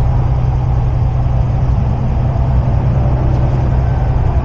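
Semi-truck on the road, heard from inside the cab: a steady low engine drone mixed with road noise.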